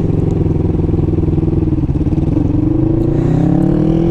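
Kawasaki Ninja 650's parallel-twin engine running under way; the revs hold steady, dip briefly about halfway, then climb steadily as the bike accelerates.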